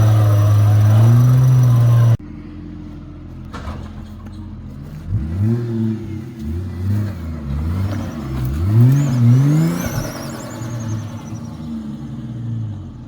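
Four-wheel drive's engine running loud and steady, then after a sudden cut, revving up and dropping back again and again in short bursts as the vehicle is worked along the track.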